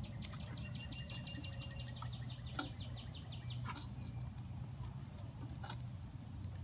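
A songbird's rapid trill of quick repeated high notes, ending a little past halfway through, over a steady low hum. A few sharp clicks and knocks come from the tiller's handle parts being handled, the loudest about two and a half seconds in.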